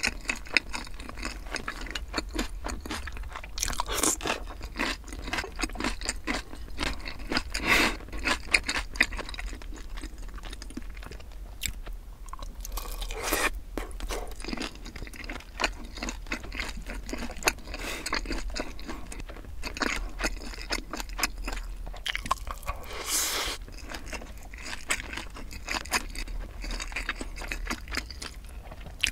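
Close-miked chewing of kielbasa sausage and sweet-spicy sauced fried chicken: a dense run of small wet clicks and crunches, with a few louder moments.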